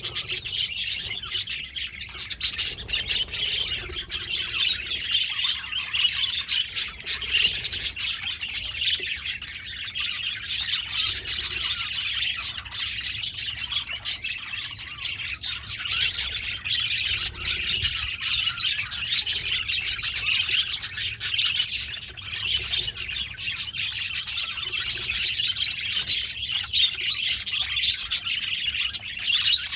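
Budgerigars chattering continuously: a dense mix of warbling, chirps and short squawks from several birds at once, with no pauses.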